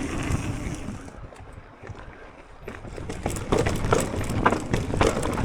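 Electric mountain bike ridden along a dirt trail: tyre rumble and wind on the microphone, quieter for a couple of seconds, then louder with repeated sharp knocks and rattles as the bike goes over bumps.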